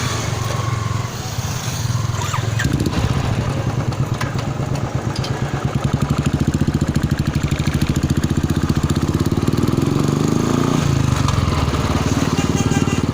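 Royal Enfield Thunderbird 350X with an aftermarket Motowings exhaust, running under way. Its exhaust pulses climb in pitch as the bike accelerates between about six and eleven seconds in.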